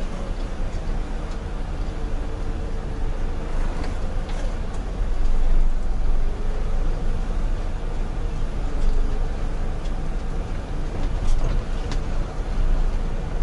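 Concrete mixer truck driving on the road: steady engine rumble and road noise, with a faint steady whine that comes and goes and a few light clicks.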